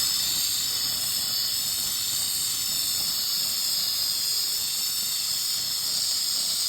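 Handheld fiber laser welding torch with its shielding gas blowing: a steady, high hiss.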